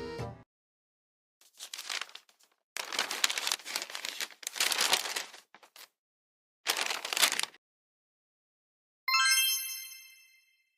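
Three bursts of rustling, crumpling noise, then a single bell-like ding that rings out and fades over about a second and a half.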